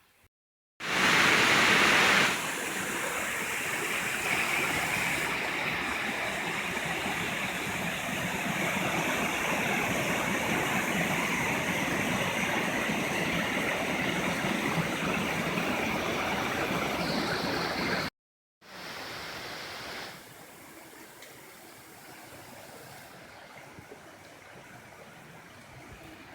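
Running water of a stream or small waterfall: a steady rushing hiss. It breaks off briefly twice, near the start and about eighteen seconds in, and is much fainter over the last six seconds.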